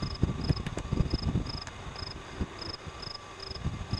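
A cricket chirping, short high chirps about twice a second, over low wind rumble on the microphone.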